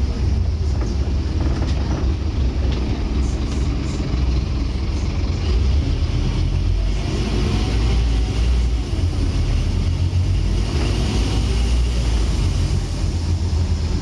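Scania N230UD bus's five-cylinder diesel engine running under way, a steady low drone that rises and falls a little with the throttle.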